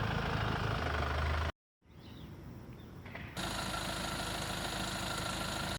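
A vehicle engine running steadily, heard in several edited segments: a brief cut to silence about a second and a half in, then a quieter stretch, then steady running again from about three and a half seconds.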